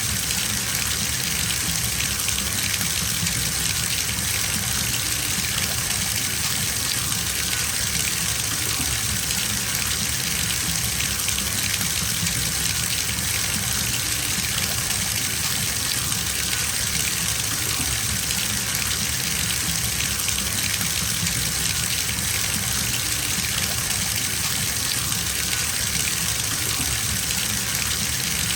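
Bathtub faucet running at full flow, water splashing steadily into the filling tub.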